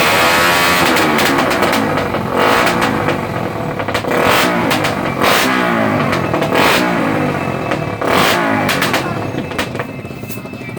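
Motorcycle engine being rev-bombed: the throttle is blipped hard again and again, the pitch shooting up and falling back about five times, with the revving easing off near the end.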